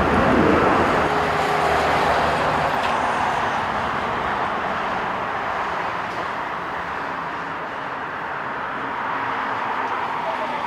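Jet engine noise of a passing Boeing 787-9, a loud steady rush that slowly fades.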